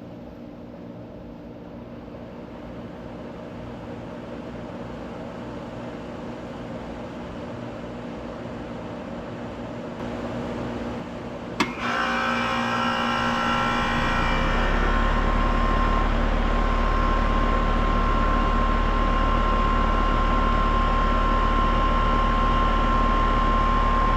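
1998 Carrier 38TKB central air-conditioner condensing unit starting up: a sharp click about halfway through, then the compressor and condenser fan start. Within a couple of seconds it settles into a louder, steady hum with a high whine.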